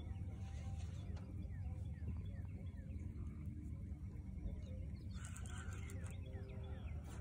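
Wild birds chirping and calling over a steady low hum, with a denser cluster of calls about five seconds in.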